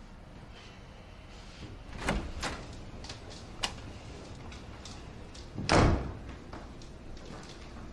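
A door being handled: a few light clicks and knocks, then a louder thud about six seconds in as it shuts.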